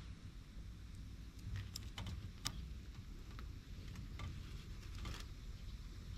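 Wood fire crackling: scattered small pops and ticks over a steady low rumble.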